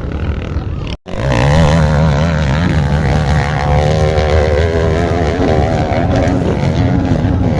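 Off-road motorcycle engines running, their pitch wavering up and down. The sound cuts out briefly about a second in.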